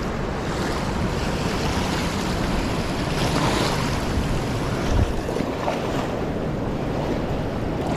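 Fast, swollen river water rushing steadily, with wind buffeting the microphone and a single low thump about five seconds in.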